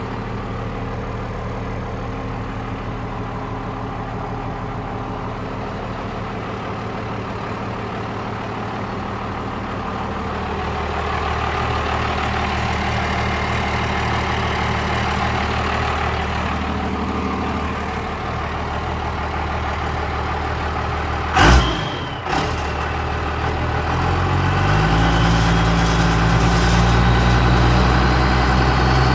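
Cummins 12-valve 5.9 L inline-six diesel in a 1995 Dodge truck idling after a cold start, growing louder about ten seconds in. A single sharp loud knock comes about two-thirds of the way through, and a few seconds later the engine speed steps up and holds there.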